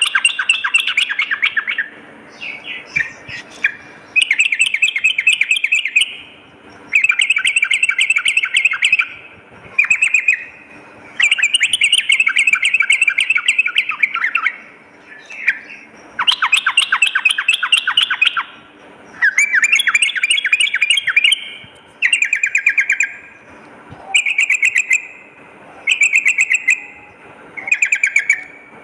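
Yellow-vented bulbul (trucukan) singing: a run of phrases made of rapid notes, each phrase one to two seconds long, repeated about a dozen times with short pauses between.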